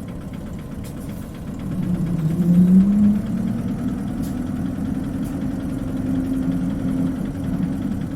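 Isuzu Cubic KC-LV380N city bus engine heard from inside the bus, running with a low hum. About two seconds in the engine note rises and swells briefly, then settles to a steady drone.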